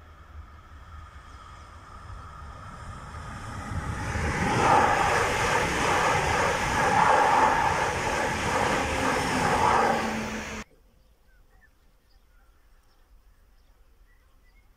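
Alstom Coradia Liner multiple unit approaching and passing at speed. It grows louder over the first few seconds, runs loud and steady for about six seconds, then cuts off suddenly.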